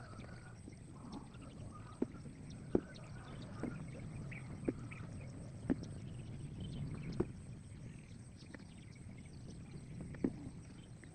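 Eggplant being picked: sharp short snaps or clicks, about seven at irregular intervals, over a steady low outdoor background.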